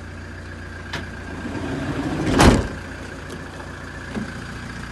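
Toyota Hiace van's sliding side door rolled along its track and slammed shut about halfway through, with a click before it and a lighter knock after. The van's 3-litre turbo diesel idles underneath.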